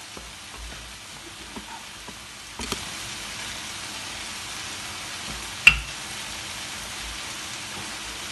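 Steady sizzling of mushrooms, bell pepper and onion frying in a pan, getting louder about a third of the way in, with a few light knocks of a wooden rolling pin on the counter. A single sharp click, the loudest sound, comes about two-thirds of the way through.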